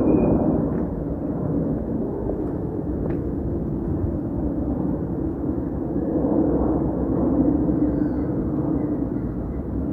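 Jet airliner engines rumbling as the aircraft passes, a steady low roar that swells slightly past the middle.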